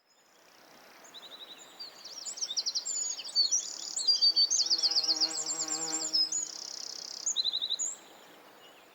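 Small birds chirping and trilling: a busy stream of high chirps and rapid trills that fades in, grows loudest in the middle, then drops away and fades out near the end.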